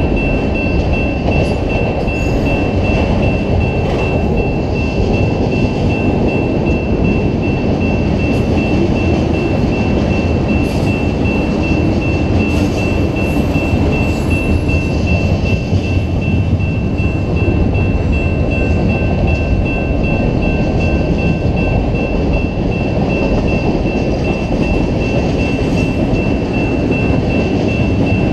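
Freight train cars rolling past at close range: a steady loud rumble of wheels on rail with occasional clicks, and a thin, steady high-pitched ring running through it.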